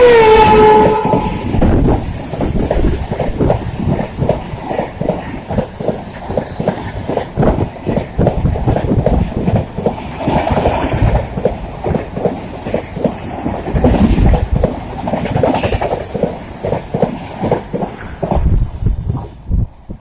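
A passing passenger train's horn cuts off with a drop in pitch as the locomotive goes by. Then the coach wheels clatter steadily over the rail joints as the train rushes past, until the sound falls away near the end.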